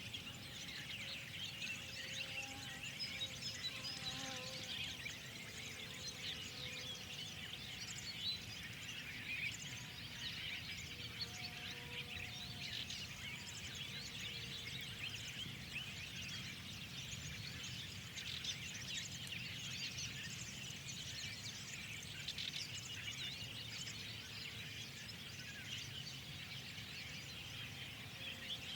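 A spring chorus of many small birds chirping and twittering without a break, over a low steady background rumble.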